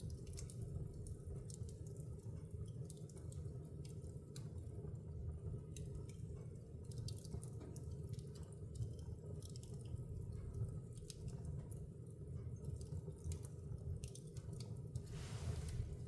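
Wood fire in a fireplace crackling: irregular sharp pops and snaps over a steady low rumble, with a brief hiss near the end.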